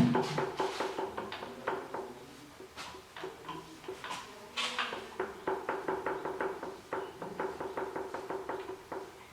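Metal engine parts and tools clinking and knocking during hand work on a Toyota 3L diesel's piston and connecting rod. It opens with a loud clank, and about halfway through comes a quick run of light ringing taps.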